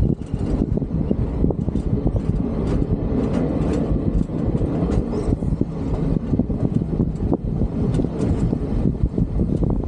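Byron solar train running at regular speed, heard from on board: a steady rumble of wheels on the track with irregular clicks and knocks from the rails.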